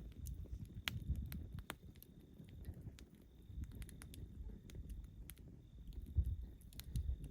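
Wood campfire crackling: irregular sharp pops and snaps over a low, uneven rumble.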